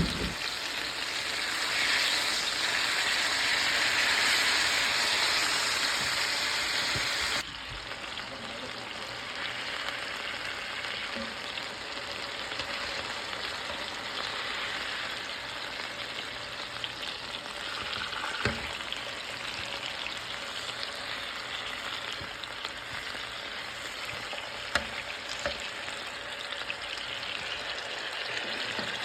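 Oiled, seasoned chicken breasts searing in olive oil in a skillet, with a dense sizzle. The sizzle is loudest for the first seven seconds or so, then drops suddenly to a steadier, quieter sizzle. A couple of light knocks come later.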